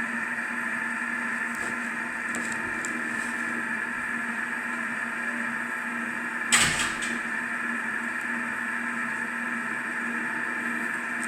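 A steady hum runs throughout, with one sharp bang about halfway through that dies away quickly.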